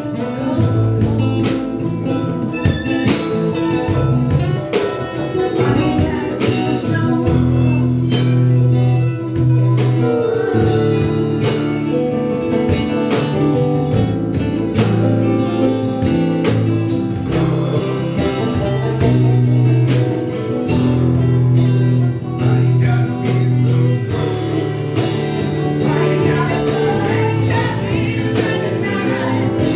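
A band playing an instrumental break: guitar over sustained bass notes and a steady drum beat.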